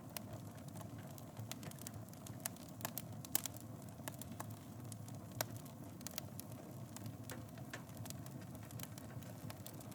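Wood fire in a fireplace burning with a steady low rumble and irregular sharp crackles and pops, a couple of them louder about three and a half and five and a half seconds in.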